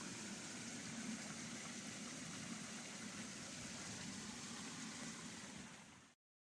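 Steady rushing of running water. It fades over the last second and then cuts off to silence.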